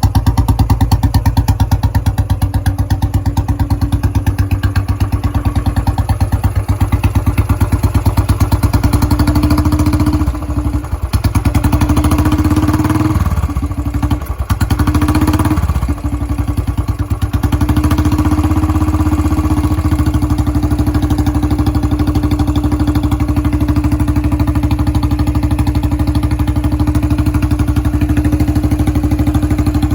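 Motorcycle engine fitted with a long Punjabi 'dholki' bottle exhaust, idling with an even, regular beat. The throttle is blipped a few times around the middle before it settles back to a steady idle.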